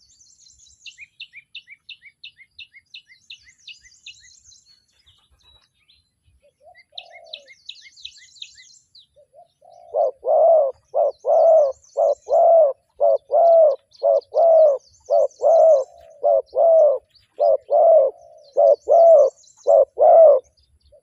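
Spotted dove cooing: a few faint coos, then from about halfway through a loud, close run of short coos repeated at a steady pace. Twice in the first half a small bird gives a fast, high series of chirps.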